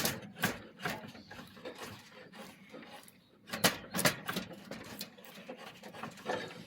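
Hand tool rasping or scraping the wood of a bow limb being tapered, in irregular short strokes, with a few stronger strokes about halfway through.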